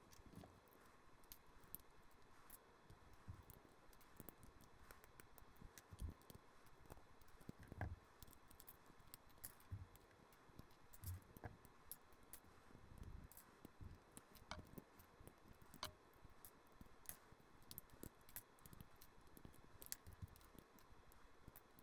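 Faint, irregular clicks and rattles of plastic LEGO bricks being pulled apart and set down, many small snaps scattered through, a few louder than the rest.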